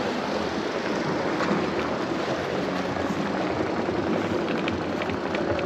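Steady rush of wind across the microphone of a Super73 electric bike's rider while riding along.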